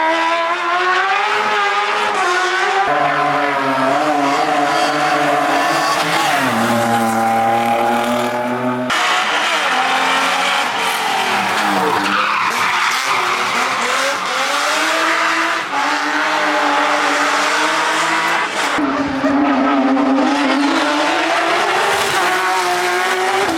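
Race car engines revving hard and changing pitch through gear changes, with tyre squeal, in several short clips joined by abrupt cuts; around the middle, a car's engine note sweeps down and back up.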